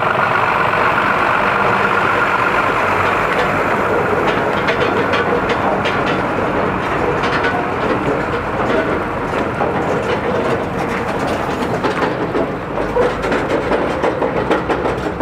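Steady road and wind noise of a car travelling at speed on a highway, with rattling clicks from about four seconds in.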